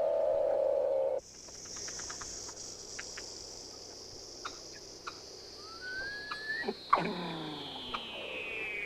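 Programme soundtrack of electronic and animal-like calls: a held tone cuts off about a second in, then a long high whistling tone slowly falls in pitch, with scattered clicks, a short rising chirp and a few quick downward sweeps around seven seconds in.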